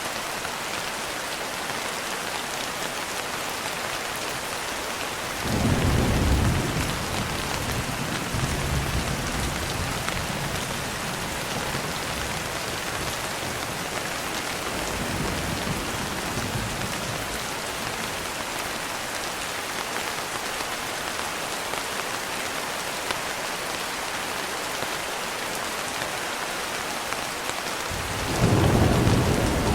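Steady rain with thunder: a rumble breaks out about five seconds in and rolls on unevenly for about ten seconds, and a second clap of thunder starts near the end.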